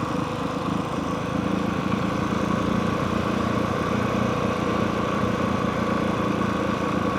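Honda CRF450R's single-cylinder four-stroke engine idling steadily.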